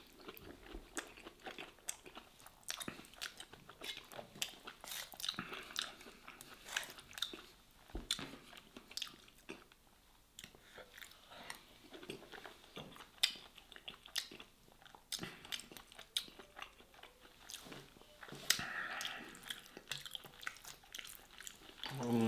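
Close-up chewing and biting, with many small crunches and mouth clicks: a person eating stuffed vegetables and crisp air-fried bread by hand.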